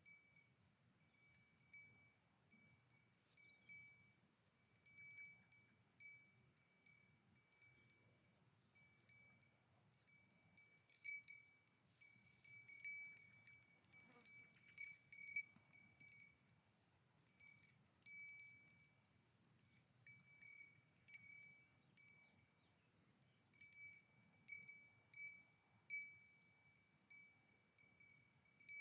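Small bell on a grazing cow ringing faintly and irregularly as she moves, a clear high ring that clinks in short bunches, louder about midway and again near the end.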